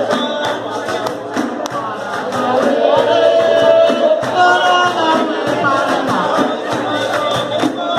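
Live music: a group singing over hand percussion that keeps a steady beat.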